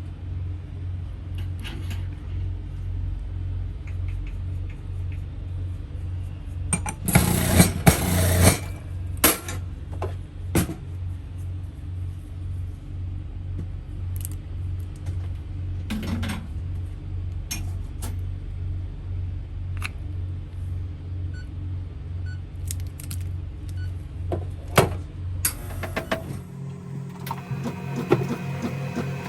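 Steady low engine hum of running generators, with scattered clicks and knocks of coffee-making work and a loud hissing burst about seven seconds in. Music comes in near the end.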